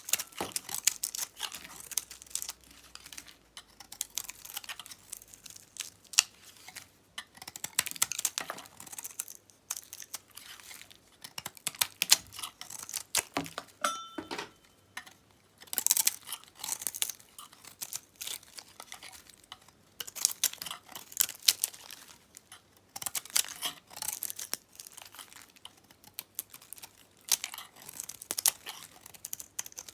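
A knife cutting through dyed soap, with crisp crackling cuts in short bursts every few seconds.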